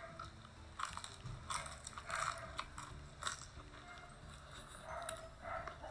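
A person chewing fried dried fish (daing), with a scattering of short crunching clicks.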